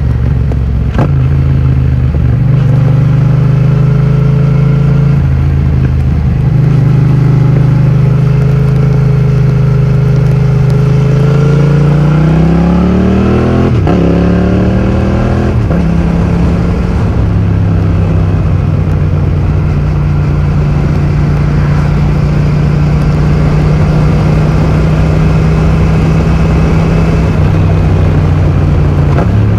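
2020 Yamaha MT-07's parallel-twin engine through an Akrapovic full titanium exhaust with a modified dB killer, under way at steady revs. About halfway through it revs up with a rising pitch, then the pitch drops sharply twice as it shifts up, and it settles back to steady cruising.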